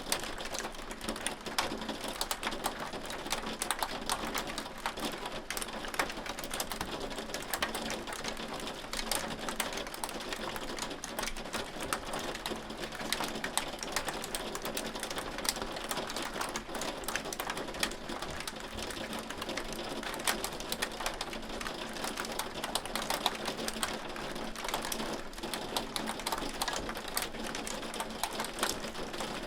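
Hail falling steadily: a dense, continuous clatter of hailstones striking, with many sharp ticks each second and no let-up.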